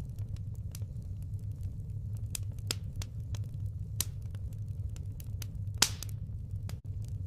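Firewood burning, crackling and popping irregularly over a steady low rumble, with one sharper pop a little before the end.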